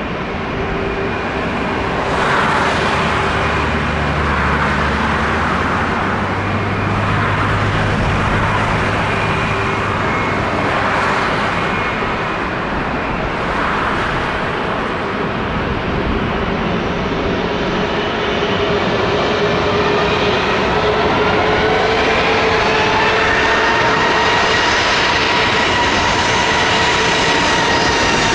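Airbus A380-800 jet engines (Rolls-Royce Trent 900s) running with a steady roar. Whining engine tones rise and bend from about two-thirds of the way in, as the sound grows a little louder.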